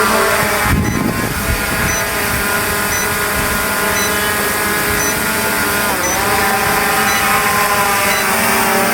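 M108 Plus quadcopter drone's motors and propellers whining steadily as it hovers close by, the pitch dipping briefly and coming back up about six seconds in as the motors change speed. A faint high beep repeats about once a second.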